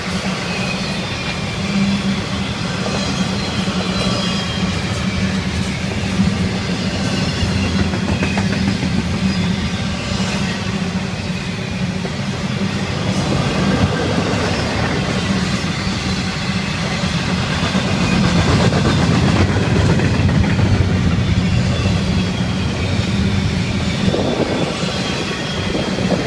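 Florida East Coast freight train's double-stack container well cars rolling past close by: a steady noise of steel wheels on the rails that grows a little louder about two-thirds of the way through.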